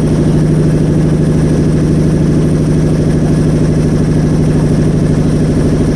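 Motorboat engine running steadily and loudly, an even, unchanging drone with a fast regular pulse.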